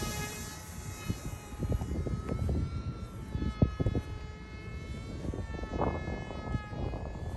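Mini Aeroscout electric RC plane in flight: its battery-powered motor and rear-mounted pusher propeller give a steady whine whose pitch drifts slightly up and down. Low rumbling noise lies underneath.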